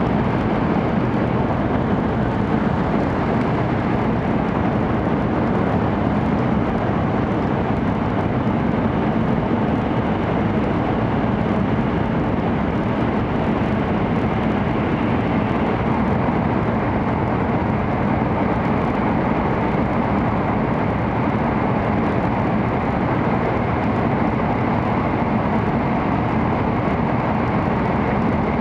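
Cabin noise of an N700-series Shinkansen running at speed, most likely through a tunnel: a loud, steady rumble and rush of air and rails with no change over the whole stretch.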